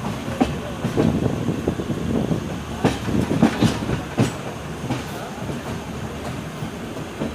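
Passenger train coach running along the track, with a steady rumble and a series of irregular clattering knocks from the wheels passing over rail joints, bunched around the middle.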